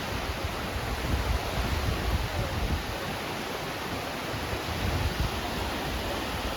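Sea surf washing onto a beach, a steady hiss of breaking waves, with wind gusting on the microphone in low rumbles that swell and ease.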